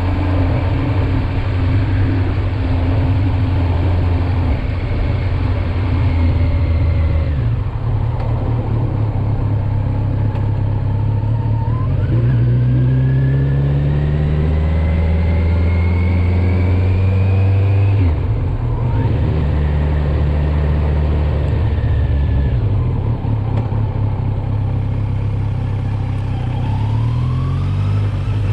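Kawasaki Z900 inline-four engine under way, its note climbing as the bike accelerates and dropping suddenly twice, at a gear change or the throttle closing. The engine note then falls away and starts rising again near the end.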